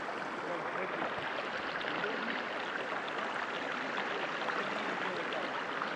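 Water of a small stream running and babbling steadily.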